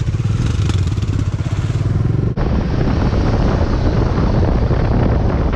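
Motorcycle engine running, with a fast steady pulse. About two seconds in the sound breaks off sharply and the bike is heard under way, engine noise mixed with wind on the microphone.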